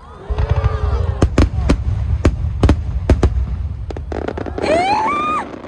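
Aerial fireworks exploding overhead: a string of sharp bangs over a deep rumble, with a rising pitched tone near the end.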